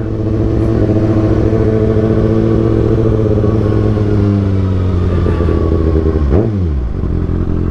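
Kawasaki ZX6R 636 inline-four running at low revs through an Austin Racing GP1RR aftermarket exhaust. Its pitch eases slowly down, dips sharply and comes back about six seconds in, then holds steady near idle.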